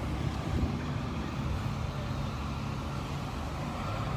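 Road traffic: cars and trucks driving past close by, engines running low and steady.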